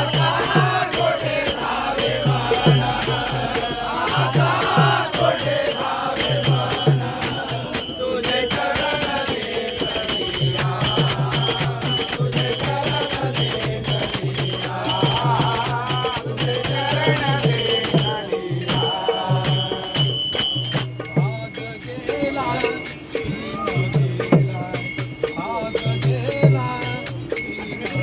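Devotional bhajan sung by a group in chant style, with a drum keeping a steady beat and metal jingles or small cymbals rattling along; the drum stops for a couple of seconds about two thirds of the way through, then comes back in.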